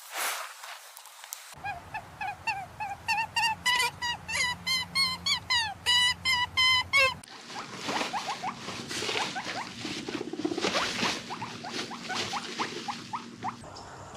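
Small animal squeaking: a run of short, high, pitched squeaks that come faster and faster, followed by a second run of quicker, rougher chirps.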